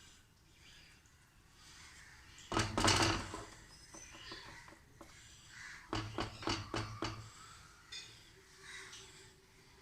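Kitchenware clattering as momo dough is folded and handled: a short clatter about two and a half seconds in, then a quick run of light knocks between about six and seven seconds in.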